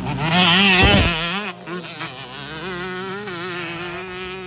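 Yamaha YZ125 two-stroke motocross bike engine running, its pitch rising and falling with the throttle. It is loudest in the first second, then quieter, settling to a steadier note near the end.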